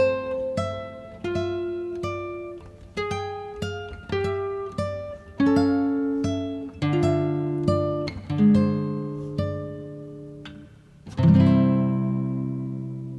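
Acoustic guitar music: single plucked notes and small chords, ending on a full strummed chord about eleven seconds in that is left to ring out and fade.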